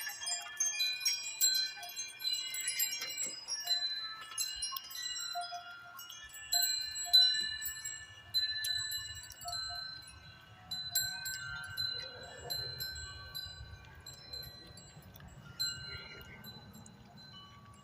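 Metal wind chimes ringing irregularly in gusty wind: clear tones struck at random moments, each ringing on and fading. A low rumble of wind joins about halfway through.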